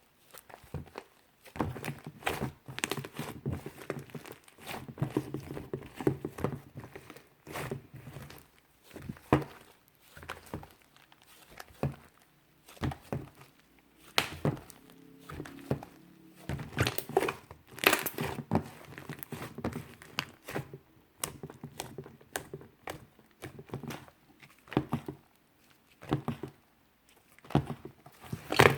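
Soft, puffy clay slime being squeezed, stretched and pressed by hand, giving irregular clusters of crackling, crinkling pops and small squishy clicks.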